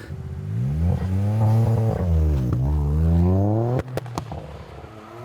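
Straight-piped Toyota Yaris GR's turbocharged 1.6-litre three-cylinder accelerating hard, its pitch climbing, dipping briefly at a gearshift about two and a half seconds in and climbing again. Near four seconds the driver lifts off and the exhaust gives three sharp pops from the anti-lag tune, then the engine settles to a lower, steady note.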